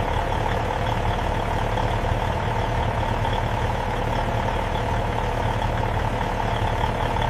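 Mack CH613 semi-truck's diesel engine idling steadily.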